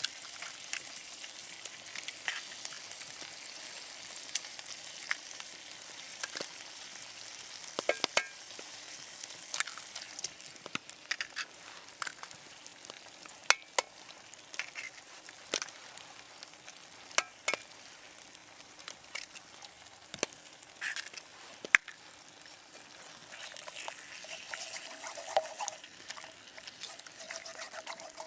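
Steady sizzling hiss with irregular sharp crackles and pops throughout. A faint steady whine joins in near the end.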